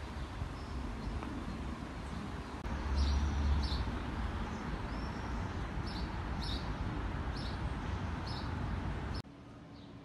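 Outdoor city ambience: a steady rushing background with a low rumble, and a small bird chirping in short repeated calls from about three seconds in. The whole background drops away abruptly near the end.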